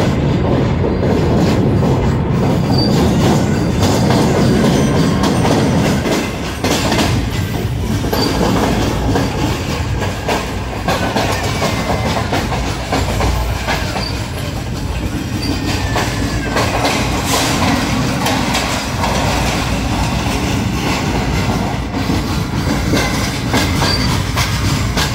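Passenger train running at speed: a steady rumble and rattle of wheels on rail, with clicks at the rail joints and a few faint wheel squeals. The rumble is deeper for the first six seconds or so, while the train is on the river bridge.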